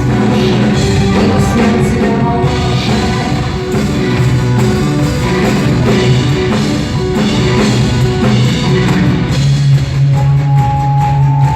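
A rock band playing live, with a drum kit beat, guitars and singing. Long held notes come in near the end.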